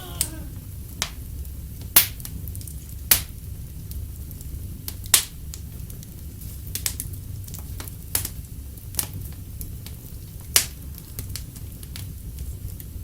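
Wood fire crackling in a fireplace: a steady low rumble and hiss broken by sharp, irregular pops, the loudest about 2, 3 and 5 seconds in.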